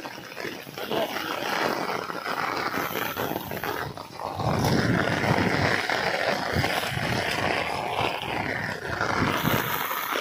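Heavy rain falling steadily, with a louder low rumble coming in about four and a half seconds in.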